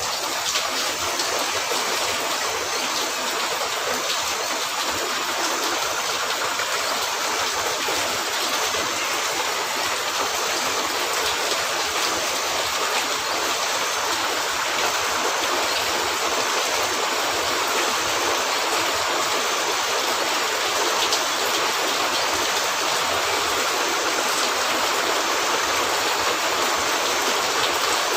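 Steady rain, an even unbroken hiss that keeps the same level throughout.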